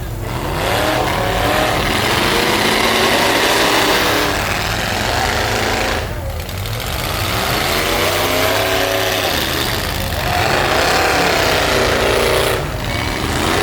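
Demolition-derby truck engines running hard and revving, the pitch climbing and dropping back about three times over steady heavy engine noise.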